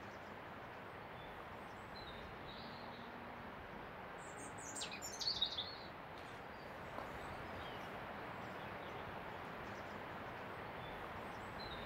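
Faint outdoor ambience, a steady wash of distant noise, with a bird giving a quick run of high chirps about five seconds in and a few fainter chirps elsewhere.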